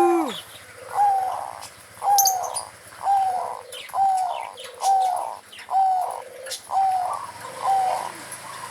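Zebra dove (perkutut) singing its cooing song: a regular series of about eight short, slightly falling coo notes, roughly one a second. Its song is taken by the keeper as the sign that the bird has begun to 'berai', its voice coming into full adult form.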